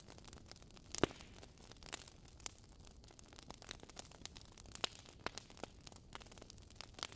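Wood fire crackling: irregular sharp pops and snaps over a faint steady hiss, the loudest pop about a second in.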